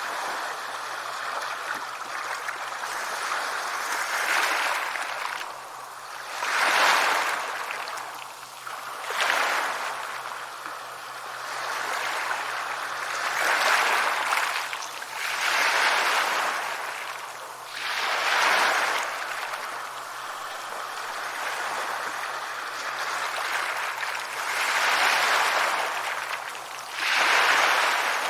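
Sea waves breaking and washing up on a shore, a hiss that swells and falls back every two to three seconds, with a faint steady low hum underneath.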